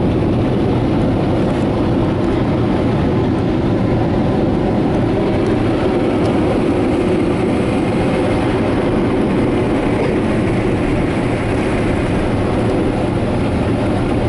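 Automatic car wash air dryers blowing a steady, loud roar of air over the car, heard from inside the cabin.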